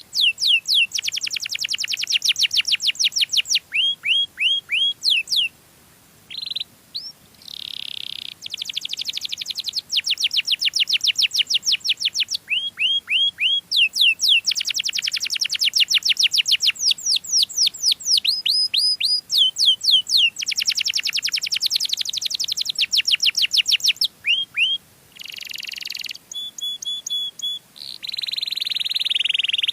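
Domestic canary singing: long, fast rolling trills of repeated down-slurred notes, broken by short pauses and a few held whistled notes.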